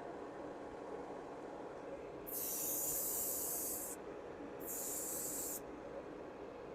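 Airbrush spraying paint in two bursts of hiss, the first about a second and a half long, the second about a second, over a steady low hum.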